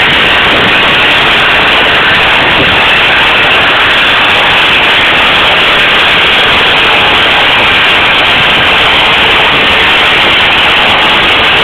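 Tyres of a Skoda 1.8 TSI spinning on chassis dynamometer rollers, a loud, steady hum and whistle that holds the same pitch throughout.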